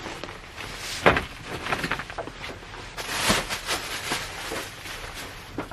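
Rain falling on the roof of a Honda Step Wagon minivan, heard from inside the cabin: a steady hiss with irregular drop taps, a few of them sharper and louder.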